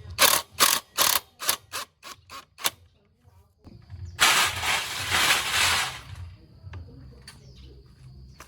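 A run of about eight sharp mechanical clicks or strokes, roughly three a second, growing fainter. About four seconds in comes a hiss of about two seconds, in the course of motorcycle repair work.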